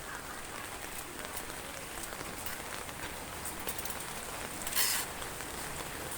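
Heavy rain falling steadily, with scattered sharp drop ticks. A brief louder hiss comes near the end.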